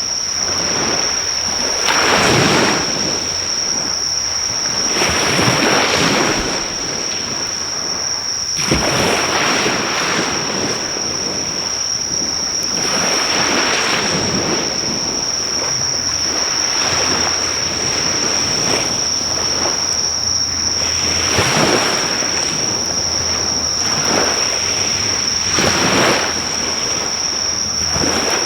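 Sea waves breaking and washing on the shore, swelling and falling back every few seconds, under a steady high-pitched insect trill.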